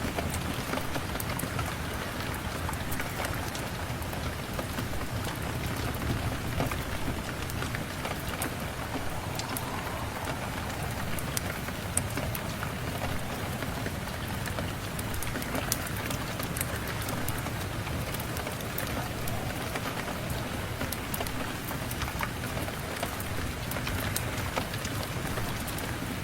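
Steady rain falling, with a low rumble underneath and scattered sharp ticks of drops.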